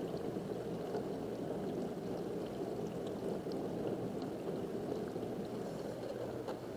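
Dishwasher running a wash cycle: a steady sound of water being sprayed and churned inside the tub, with faint light ticks. This is the test run after the diverter and its seal have been replaced.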